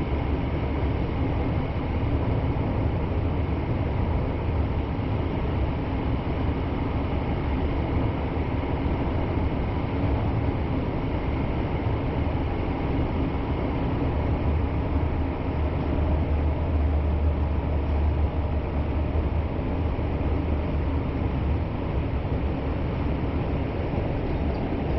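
Kyoto Municipal Subway Karasuma Line train running through the tunnel between stations, heard from inside the carriage: a steady rumble of wheels on rail and motors, with a deep low drone and no pauses.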